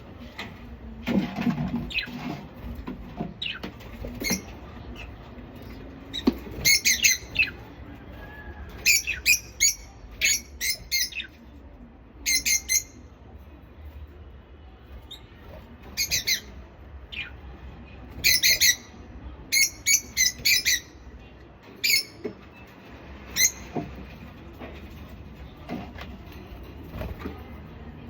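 Lovebirds giving short, sharp squawking calls in quick clusters of a few at a time, repeated on and off throughout.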